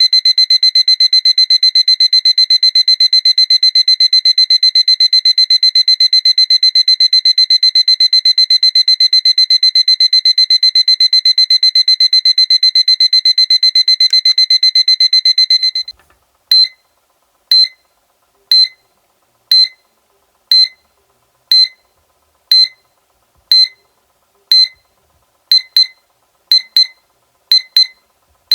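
Seiko electronic alarm clock beeping: a loud, shrill, fast-pulsing high beep that runs for about 16 seconds, then stops and changes to single short beeps about once a second, some coming in quick pairs near the end.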